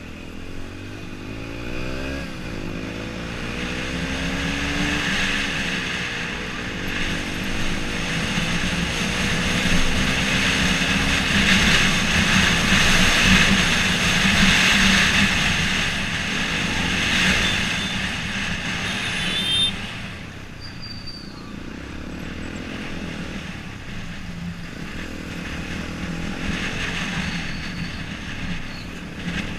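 Yamaha XTZ 125's single-cylinder four-stroke engine pulling through the gears, its pitch climbing and dropping back at each shift, with wind rushing over the action-camera microphone that grows louder with speed. About two-thirds of the way through the engine and wind ease off as the bike slows.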